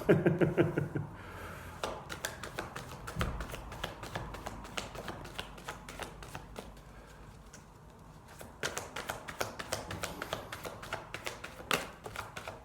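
A deck of oracle cards being shuffled by hand: quick runs of card flicks and riffles in two spells, pausing briefly a little past halfway. A short murmur of voice opens it.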